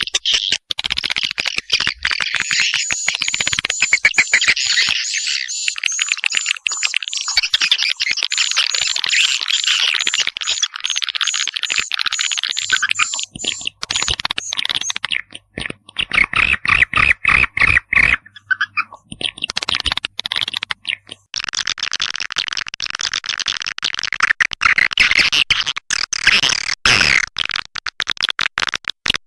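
Swiftlet lure-call recording: dense twittering chirps and rapid clicks of swiftlets, played loud. It changes texture in sections: a thick chorus of chirps, a stretch of pulsed calls broken by short gaps about halfway, then dense chirping again.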